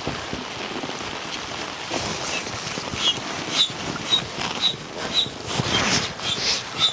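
Steady rain hiss with scattered knocks. In the second half comes a run of short, high chirps, about two a second.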